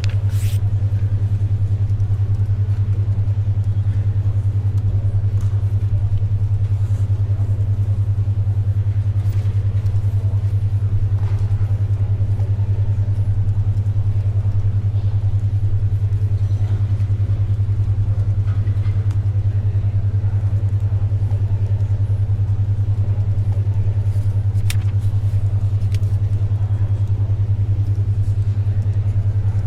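A steady low hum near 100 Hz pulsing rapidly: a 10.2 Hz alpha brainwave tone. It plays over faint library background noise with a few soft paper and pencil sounds.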